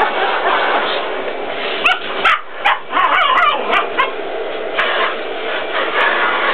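German Spitz puppy barking in a quick cluster of short, high calls over the steady rushing noise of a running vacuum cleaner.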